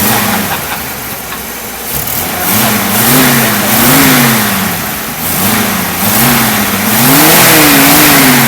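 Willys Aero Itamaraty's 2600 six-cylinder twin-carburettor engine being revved in a series of short throttle blips, its pitch rising and falling several times, with idle in between. The engine is running again after six years standing.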